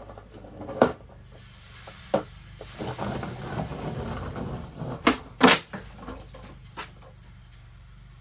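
Skateboard: sharp clacks of the board, the wheels rolling for a couple of seconds in the middle, then two loud smacks about five seconds in as a kickflip is tried.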